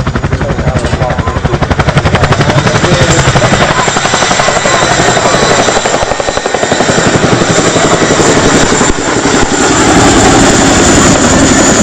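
Boeing CH-47 Chinook HC Mk2 helicopter's twin tandem rotors beating in a rapid, loud chop with a steady high turbine whine, as it taxis close by on the ground; the sound grows louder about nine seconds in.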